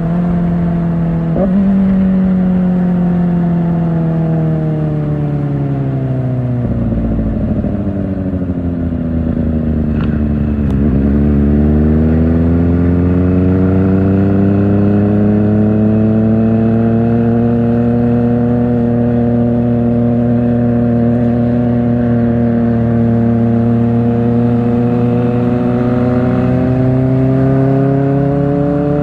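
Kawasaki Ninja ZX-4R's inline-four engine through an Akrapovic exhaust, heard while riding. The revs jump briefly right at the start, then the engine note falls steadily for about nine seconds as the bike slows. It then climbs again and settles into a steady cruise, rising slowly near the end.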